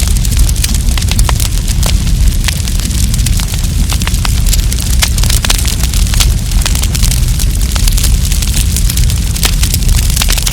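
Wood campfire crackling, with many small sharp pops coming in quick irregular succession over a steady low rumble.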